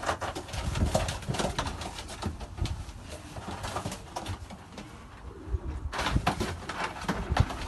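Domestic pigeons cooing, with scattered sharp clicks, knocks and rustles throughout that grow busier about six seconds in.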